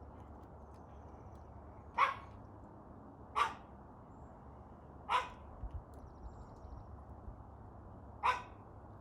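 Dog barking: four single barks spaced a few seconds apart.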